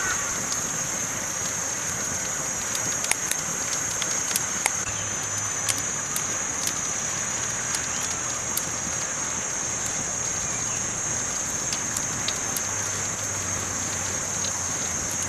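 Campfire crackling: a steady high hiss with irregular sharp pops and snaps scattered throughout.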